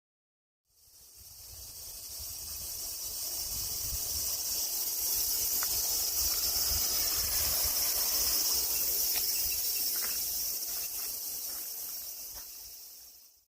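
A dense, steady chorus of summer insects shrilling high-pitched, fading in and out, with low rumbles of wind on the microphone.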